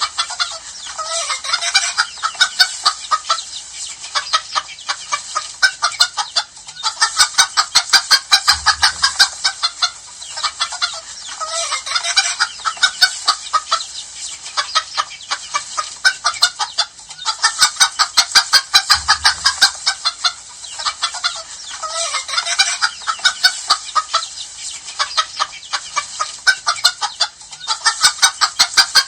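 Domestic hens clucking and cackling continuously, many quick sharp calls overlapping, swelling into louder bouts every few seconds.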